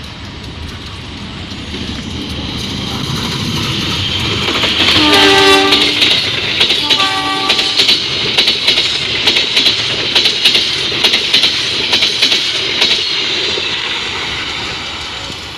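A train approaching and passing at speed. It sounds its horn twice, a one-second blast about five seconds in and a shorter one about seven seconds in. Then its wheels clatter rhythmically over the rail joints, and the sound fades near the end.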